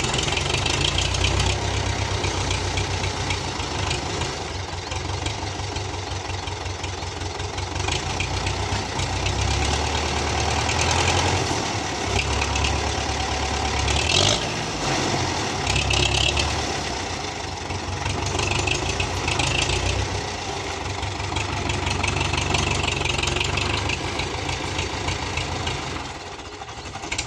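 Belarus tractor's diesel engine running, its low note shifting up and down, with a few short, higher-pitched noises about halfway through.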